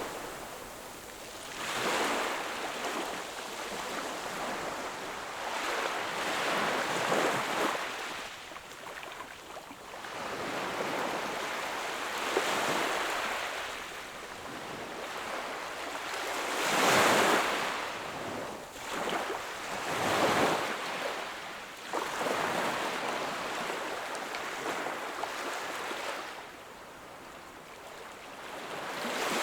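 Sea waves breaking and washing up on the shore, surging in and fading every few seconds, the loudest about halfway through.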